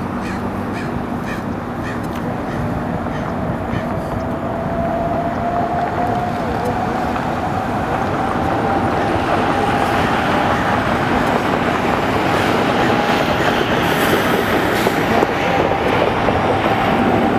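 The twin GE90-115B turbofans of a Boeing 777-300ER at takeoff power: a steady rushing rumble that grows gradually louder, with a thin whine slowly rising in pitch.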